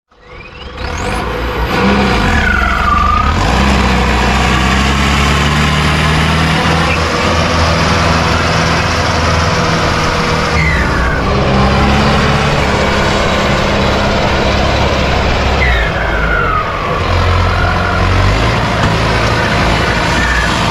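Tractor diesel engine running steadily and loud, fading in over the first two seconds, with a few brief falling tones over it.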